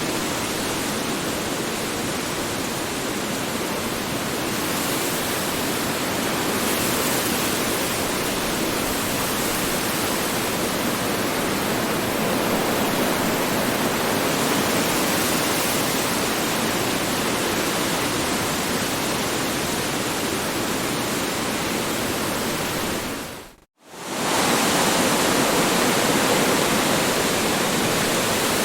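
Strong wind blowing as a steady, even rush of noise. About three-quarters of the way through it dips to near silence for a split second and comes straight back.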